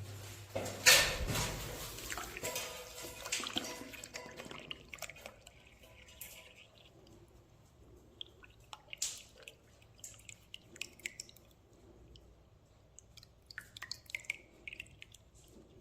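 Water being run through a system air conditioner's drain during a drainage test: a splashing surge about a second in that fades to a trickle, then scattered drips.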